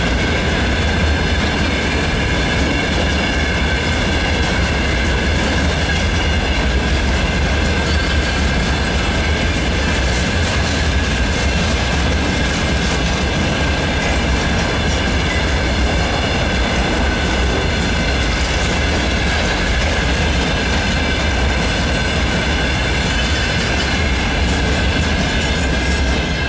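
Freight train of open gondola wagons rolling past, the wheels clattering over the rail joints, with a steady high-pitched wheel squeal ringing over the rumble. The last wagons pass near the end.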